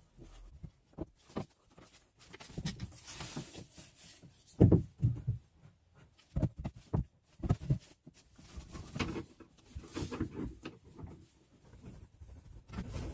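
Irregular knocks, taps and rustling scrapes of hands-on work, with one louder knock about four and a half seconds in.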